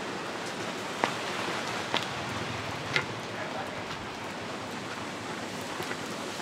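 Steady rain hiss, with three sharp taps about a second apart in the first few seconds.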